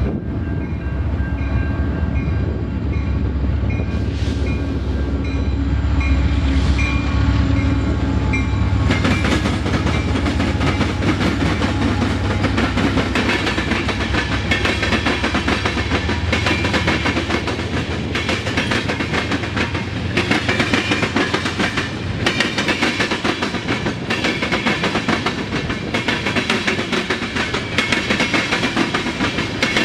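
Canadian National freight train crossing railroad diamonds: the diesel locomotives' deep engine rumble passes first, with a grade-crossing bell ringing steadily. About nine seconds in it turns into a rapid, continuous clatter and banging of tank-car wheels hitting the gaps in the diamond crossings, very noisy.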